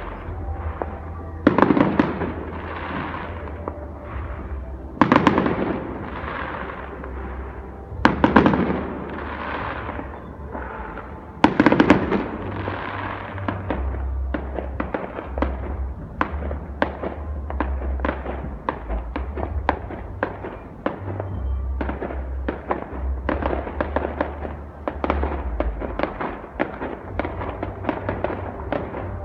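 Fireworks going off: four heavy bangs, each followed by a rumbling tail, about three seconds apart. After about thirteen seconds they give way to a dense, rapid crackling of many small reports that runs on.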